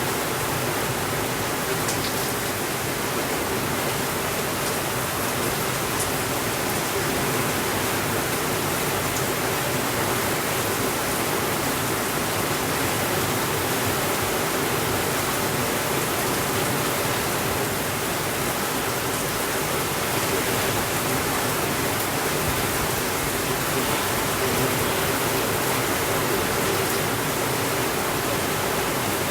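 Steady heavy rain on a window, an even hiss, with a few faint ticks.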